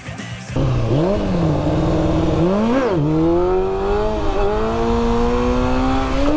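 Honda CBR600F3's inline-four engine accelerating hard, revs climbing, then an upshift about three seconds in and a long steady pull to higher revs in the next gear.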